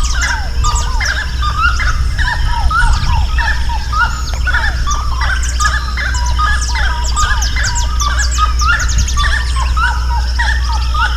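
Many birds singing and calling at once: a dense chorus of overlapping chirps and short falling whistles, with a steady low hum underneath.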